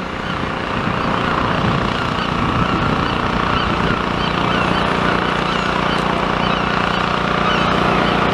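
Steady outdoor noise of wind on the microphone, with a low engine hum that grows steadier about halfway through and faint bird calls above it.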